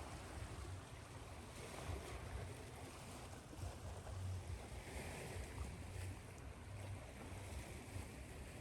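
Ocean surf washing on a shore, layered with white noise: an even hiss with a low rumble underneath that swells and eases a little.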